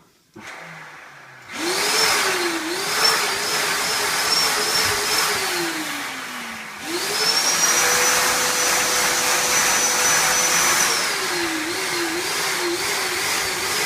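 Vacuum cleaner motor starts about a second and a half in and runs with a whine that wavers up and down in pitch. Near the middle it winds down and stops, then starts again at once and runs steady for a few seconds before wavering again near the end.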